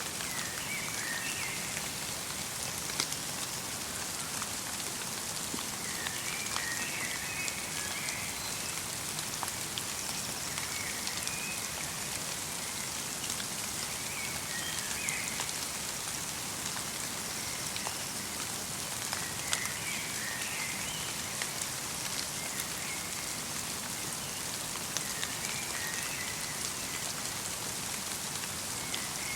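Steady light rain falling on a forest, a fine even hiss with scattered individual drip ticks. A small bird chirps in short bursts every few seconds.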